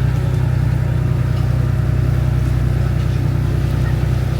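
A boat's engine running at a steady speed, a loud, even low drone.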